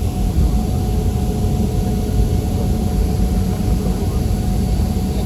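Airliner cabin noise: the steady low rumble of the jet engines and airflow heard from inside the passenger cabin, with a faint steady hum above it.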